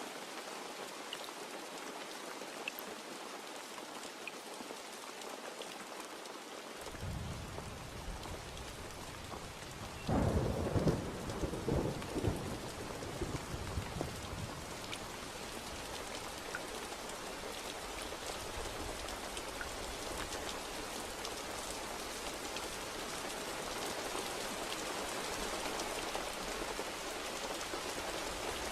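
Steady heavy rain falling, with thunder: a low rumble comes in about seven seconds in, then a louder clap about ten seconds in that rumbles on for a few seconds before fading back under the rain.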